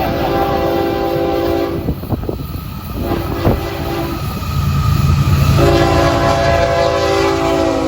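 Freight diesel locomotive's air horn sounding a chord of several notes: a long blast, a short one about three seconds in, and another long one starting near the end, the pattern of a grade-crossing signal. Under it the locomotive's engine rumbles and the train's wheels clatter as it passes.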